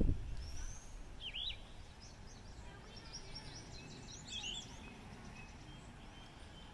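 Outdoor ambience with songbirds chirping now and then: a few short sweeping calls about a second in and a cluster of chirps midway. A low rumble at the start fades within the first second.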